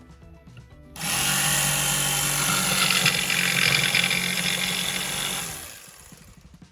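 A power drill runs steadily at speed for about four and a half seconds, starting suddenly about a second in, then winds down and stops.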